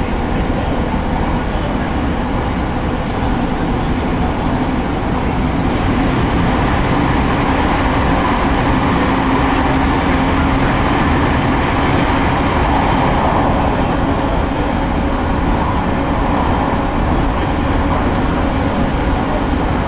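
Steady running noise of a JR Narita Line commuter train heard from inside the car: wheels on rails and a low hum, somewhat louder through the middle stretch while the train runs through a tunnel.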